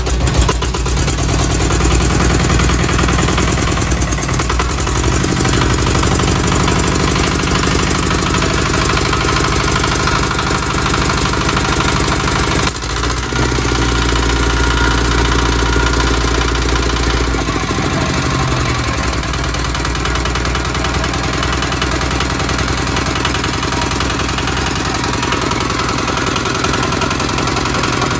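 Emei EM 185 single-cylinder 8.5 hp diesel engine running steadily, its note shifting a few times as the speed changes. It sounds freshly started and in good order, though its mounting feet are working loose.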